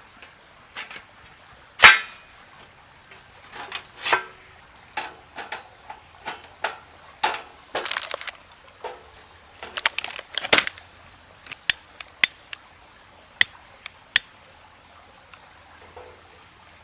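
A string of sharp clicks, knocks and clinks at irregular spacing, as of hard objects being handled and set down. The loudest knock comes about two seconds in, with a busier cluster in the middle.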